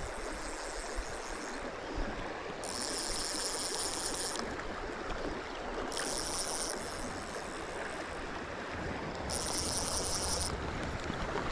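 Steady rush of a shallow stream running over riffles. A high buzz comes and goes three times.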